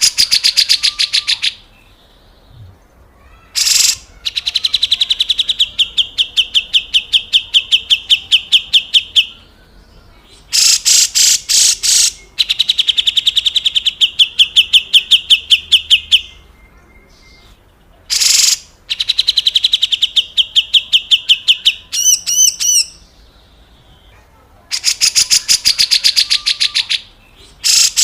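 Grey-cheeked bulbul (cucak jenggot) giving its harsh rattling 'besetan kasar' call: rapid strings of rasping notes, several a second, in phrases of one to five seconds with short pauses between. A brief run of clearer, curving notes comes about two-thirds of the way through.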